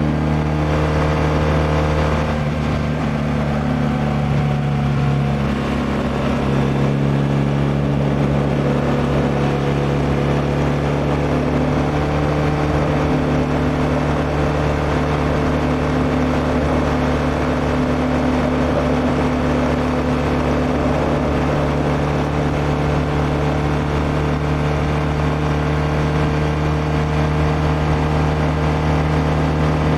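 BMW R1200R's liquid-cooled boxer twin running steadily while riding, its note shifting a little in the first few seconds and then holding even, under a constant rush of noise.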